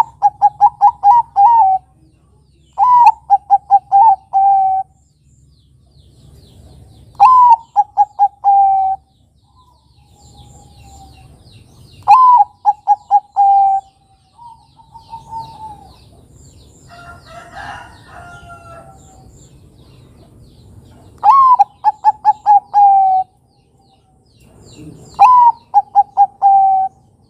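Bangkok-type zebra dove (perkutut) singing its cooing song: six phrases a few seconds apart, each an opening note followed by a quick run of about six short coos.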